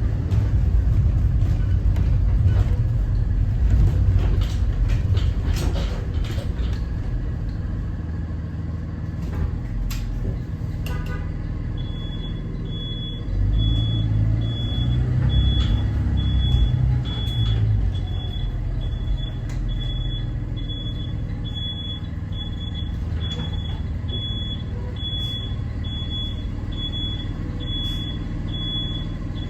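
Cummins ISB 6.7 inline-six diesel of a Thomas Saf-T-Liner C2 school bus running, with the engine rumble swelling for a few seconds in the middle. About twelve seconds in, a high-pitched backup alarm starts beeping at an even pace, about once a second, as the bus reverses.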